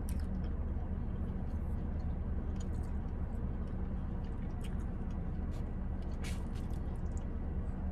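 A person chewing a mouthful of food, with soft scattered mouth clicks, over a steady low hum inside a car.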